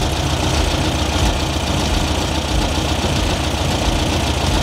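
Air-cooled flat-four engine of a 1970 VW Beetle idling steadily while its carburettor idle is being set.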